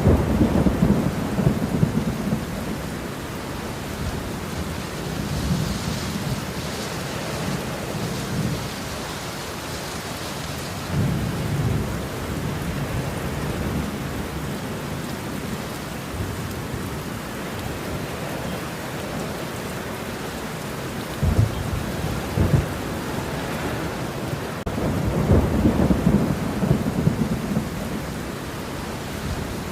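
Steady heavy rain with rolling thunder. Low rumbles swell near the start, about a third of the way in, and again near the end, and there are a couple of sharper cracks a little past two-thirds of the way in.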